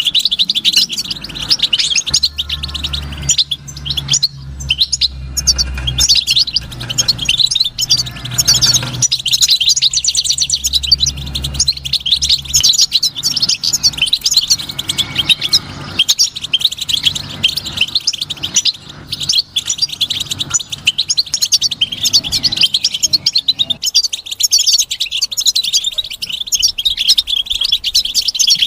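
European goldfinch singing: a fast, continuous twittering song of rapid high chirps and trills. A low steady hum runs underneath through the first half and then stops.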